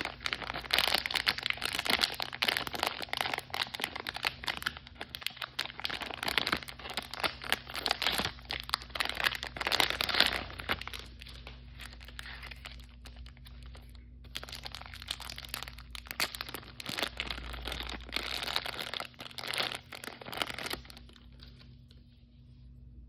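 Crinkly blind-bag packaging being crumpled and torn open by hand, a dense crackling full of small clicks. It is busiest for the first half, comes in shorter bursts after that, and thins out near the end.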